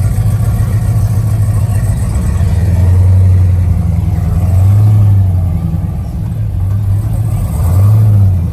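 Car engine running with a loud, deep rumble that swells three times, about three, five and eight seconds in, as it is revved.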